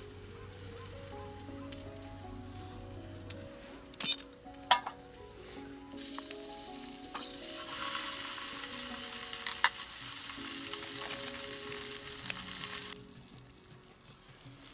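Food sizzling in a hot pan over a campfire, a loud hiss that starts about halfway through and stops suddenly near the end, after a couple of sharp clinks. Soft background music plays underneath.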